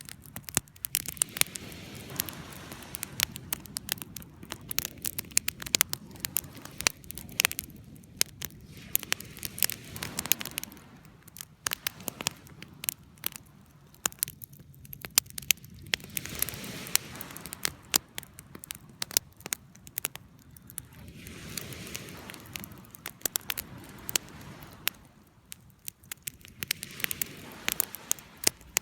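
Campfire crackling: irregular sharp pops and snaps of burning wood over a soft rushing of flames that swells and fades every few seconds.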